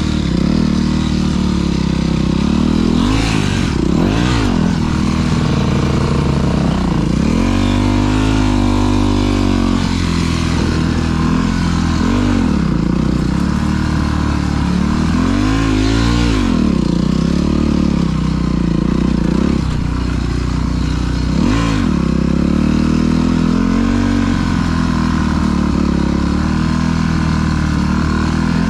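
Dirt bike engine running on a trail ride, its pitch rising and falling several times as the throttle is opened and closed.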